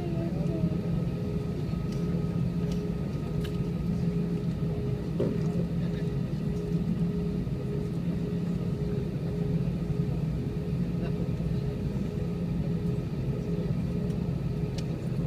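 Airbus A320's jet engines running steadily: a low hum with a faint steady whine above it.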